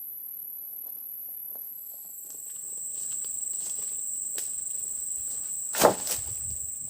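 Steady high-pitched buzzing of insects, with faint scattered steps and rustles; about six seconds in comes a sharp loud knock, followed quickly by a lighter one.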